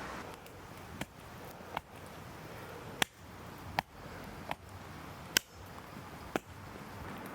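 About seven sharp chopping strikes of a knife, one every second or less at an uneven pace, the loudest about three and five seconds in.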